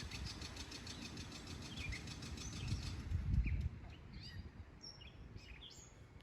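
Birds chirping in short, quick calls, over a low rumble that swells and then cuts off a little past the middle.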